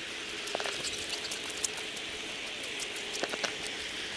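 Steady rain hiss with scattered ticks of raindrops, including a few sharper pairs of ticks about half a second in and again a little past three seconds.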